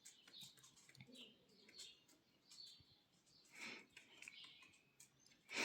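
Budgerigar giving faint, scattered chirps, mixed with small clicks and a brief louder rustle a little past halfway.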